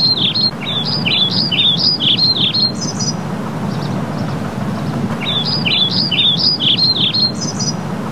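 A songbird singing two phrases of quick, repeated chirping notes, each phrase ending in a few higher notes, over a steady low background hum.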